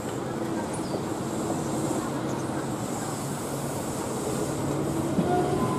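Keihan tram-style electric train pulling slowly away from the station, its motors giving a low steady hum. A brief rising whine comes in near the end as it gathers speed and draws closer.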